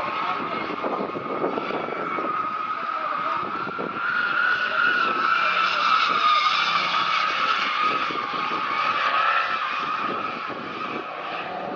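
A car drifting: the engine running hard with the tyres skidding. It gets louder about four seconds in and eases off near the end.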